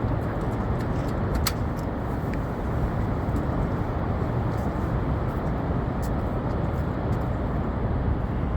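Steady, unbroken roar of Niagara Falls' water, heaviest in the low end, with no change in level.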